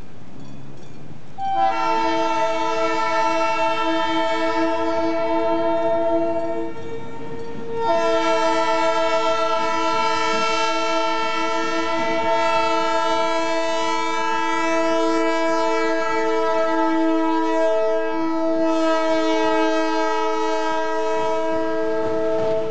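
Diesel freight locomotive's multi-note air horn sounding for level crossings: one blast of about five seconds, a short break, then a long continuous blast of some fifteen seconds. Under the horn runs a quieter train rumble.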